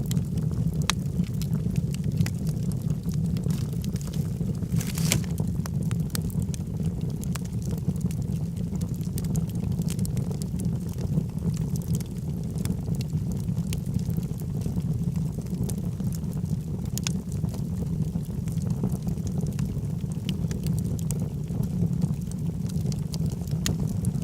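Logs burning in a fireplace: a steady low rumble of flames with frequent sharp crackles and pops, one louder pop about five seconds in.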